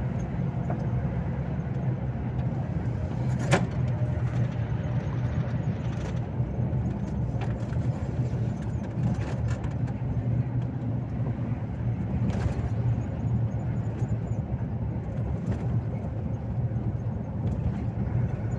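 Volvo FH 460 truck driving, its engine and road noise making a steady low drone, with one sharp click about three and a half seconds in.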